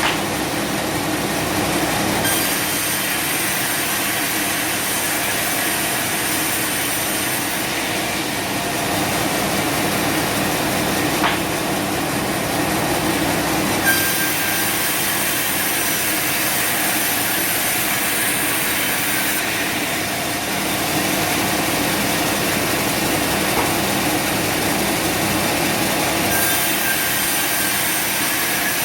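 Sawmill machinery running steadily with a constant hum. A high hiss comes in for stretches of about five seconds, three times, as the saw cuts.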